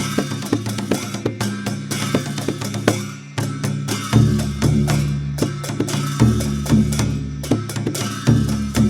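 Dhime, the Newar two-headed barrel drum, played in a fast, even rhythm of strikes, with deep low strokes that grow stronger from about four seconds in.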